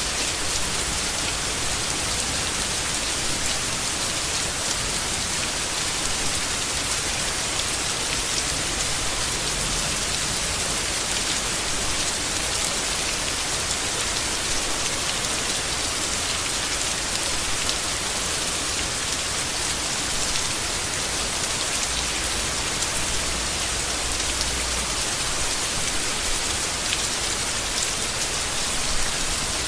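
Steady rain falling on leaves, a constant hiss with scattered drop ticks.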